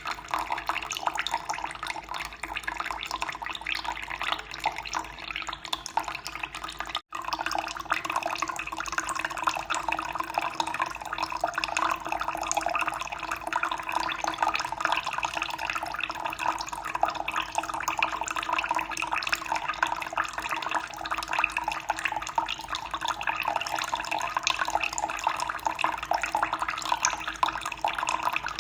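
Running water flowing and splashing steadily, with a split-second break in the sound about seven seconds in.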